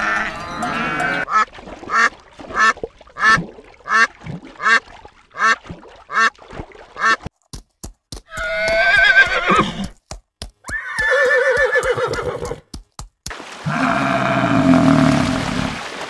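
A run of farm animal calls: a goat bleating briefly, then about ten short calls at an even pace of roughly one every 0.7 seconds. Two long, wavering horse whinnies follow a little past the middle, and a low, drawn-out water buffalo call comes near the end.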